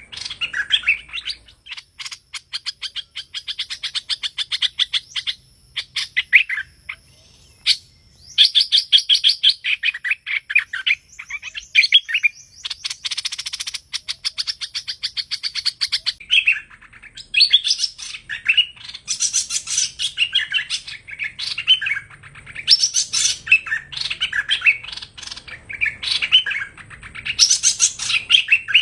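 Hoành hoạch songbird singing: repeated phrases of fast chirps and rattling trills, with short pauses between phrases. This is the song used as a lure to trap the species.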